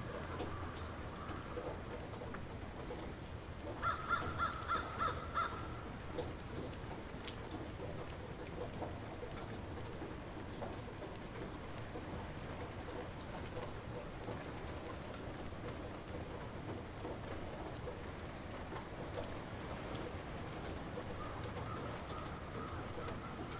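Light rain falling steadily. About four seconds in, a bird gives a quick series of about five calls, and fainter calls sound near the start and near the end.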